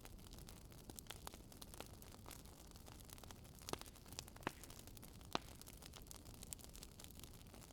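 Wood fire crackling in a fireplace: small irregular snaps and pops over a low, steady hiss of burning logs, with a few louder pops near the middle.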